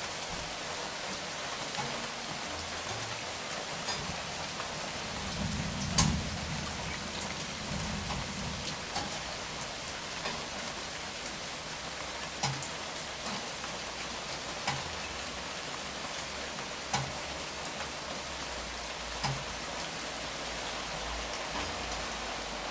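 Steady rain falling, with louder single drips landing every few seconds; the loudest comes about six seconds in.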